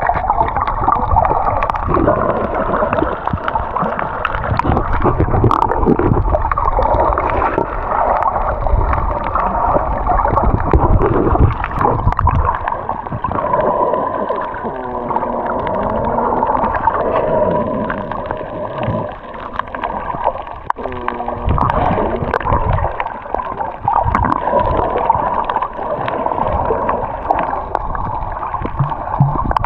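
Muffled underwater sound of a snorkeller's camera: gurgling, bubbling water noise, with a few wavering muffled tones in the middle.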